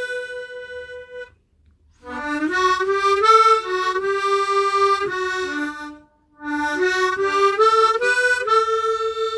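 Hohner Echo Harp tremolo harmonica played solo: a held note fades out, then after a short pause two melodic phrases of stepping notes follow, split by a brief break, the second ending on a long held note.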